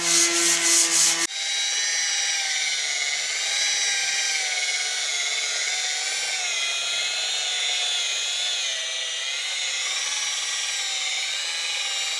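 Electric power tool working a boat hull. For about the first second it gives a fast pulsing rasp over a steady hum. After a sudden change it becomes a continuous motor whine that wavers in pitch as the tool is pressed and moved.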